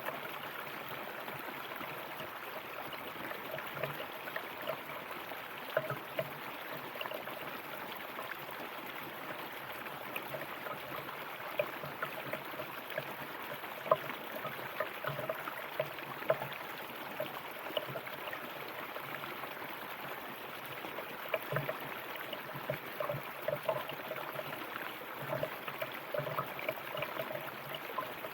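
River water flowing over rocks: a steady rushing with many small irregular splashes and gurgles.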